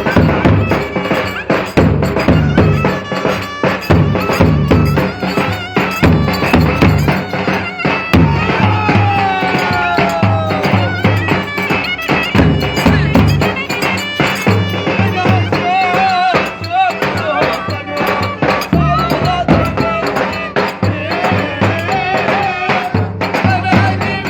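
Live Turkish folk dance music from a wedding band: a wind instrument plays a winding melody with sliding notes over a steady, loud drum beat.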